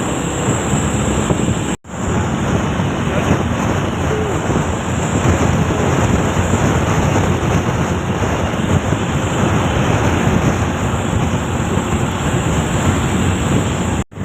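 Wind rushing over the microphone with a heavy truck's engine and road noise beneath it, steady apart from a brief break about two seconds in and another at the end.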